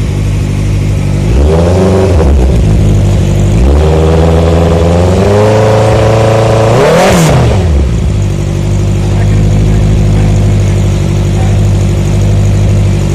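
Honda CBR650's inline-four engine on its stock exhaust, idling, then blipped briefly about a second in, then revved again and held before rising higher near the middle and dropping back to a steady idle.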